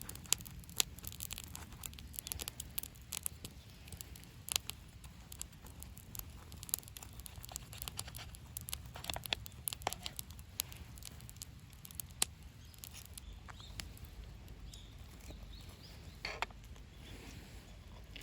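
Campfire crackling: irregular pops and snaps of burning wood over a low steady rumble.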